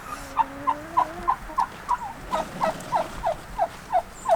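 Domestic turkey calling: a long, even series of short notes, each dropping in pitch, about three a second. A low steady hum sounds under the first second.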